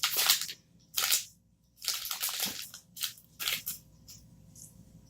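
Close-up crunching and chewing of milk chocolate with roasted hazelnuts: about five crisp crunches in the first few seconds, then quiet.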